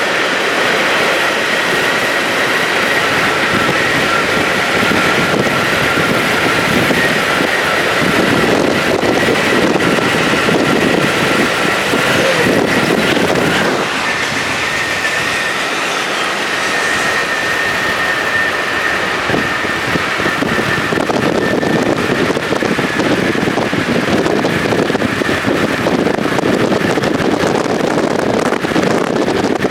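Train cars rolling past on the rails: a loud, steady rolling noise with a thin high whine running through it.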